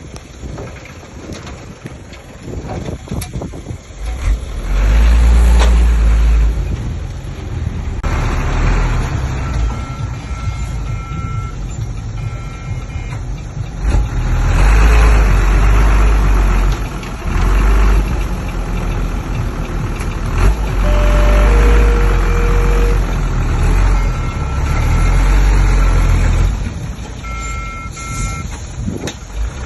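Heavy diesel engines of earthmoving machines working under load, swelling and easing again and again. A reversing alarm beeps in several short runs over them.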